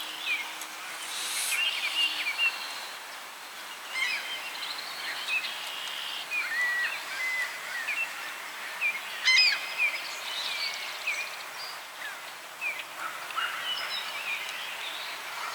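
Several songbirds chirping and whistling, short calls overlapping, over a steady outdoor hiss.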